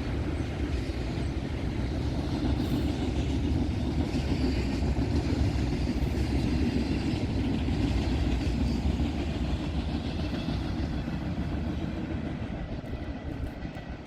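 Freight train cars rolling past on the rails, a steady rumble of wheels on track that eases off over the last couple of seconds as the end of the train goes by.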